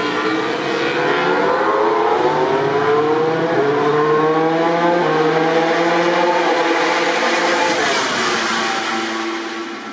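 MotoGP racing motorcycles' four-cylinder engines running at high revs, several at once, their pitch rising and falling through the gears. A louder swell of engine and wind noise peaks near the end as a bike passes close, then fades.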